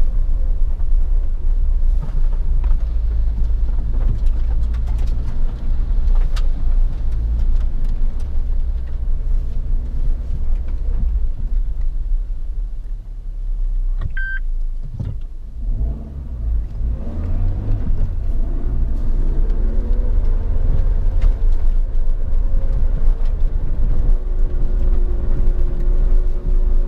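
Suzuki Jimny's 1.5-litre four-cylinder engine running under way with a heavy low rumble, its revs rising and falling. A short electronic beep comes about halfway through.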